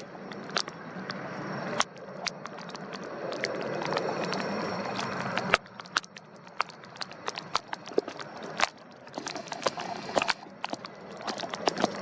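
Gusty wind buffeting the microphone, swelling for a few seconds and then dropping off suddenly about halfway through, with frequent sharp, irregular crackles and pops.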